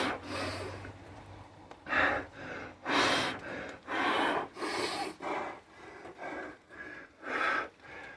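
A man breathing hard, with loud gasping breaths in and out roughly once or twice a second: he is out of breath from a long set of Navy SEAL burpees.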